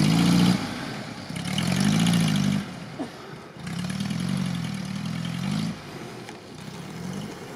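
ZAZ-968M Zaporozhets engine revving in repeated surges, its pitch rising and falling as the car drives off over a rutted track, fading toward the end.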